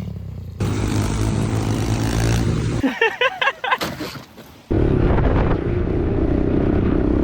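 Small pit bike engines running in short clips that cut abruptly from one to the next. A brief high wavering sound comes in the middle, then a louder steady engine from about five seconds in.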